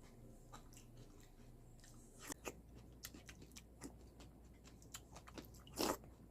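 A person chewing crunchy cereal. Faint for the first two seconds, then irregular crisp crunches, the loudest about six seconds in.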